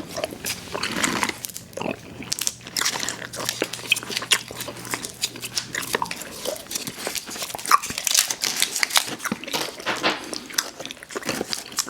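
Close-miked chewing of sour gummy worms cereal: irregular crunching, biting and wet smacking mouth sounds.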